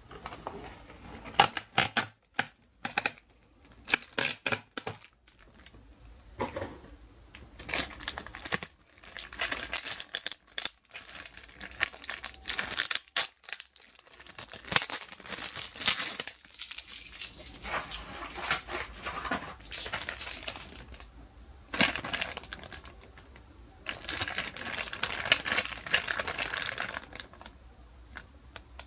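Packaging being handled: crinkling and rustling in several long stretches, with a run of sharp clicks and taps in the first few seconds.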